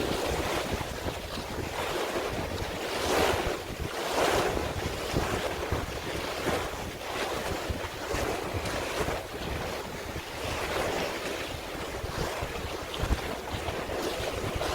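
Sea waves washing in irregular surges, with wind buffeting the microphone.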